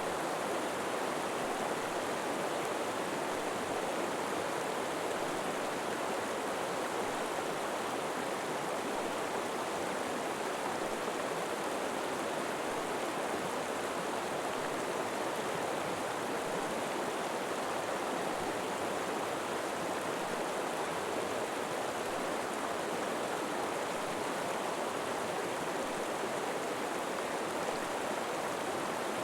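River water flowing steadily over rocks, an even rushing with no change in level.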